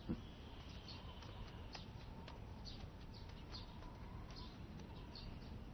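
Faint, scattered bird chirps over a quiet outdoor background hiss.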